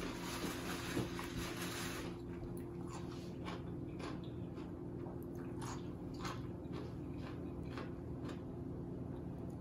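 A person eating a shrimp seafood boil close to the microphone: wet chewing with irregular lip smacks and clicks, over a steady low hum.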